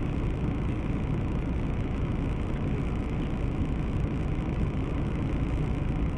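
Steady running noise of a moving car, engine and tyres on the road, with no sudden events.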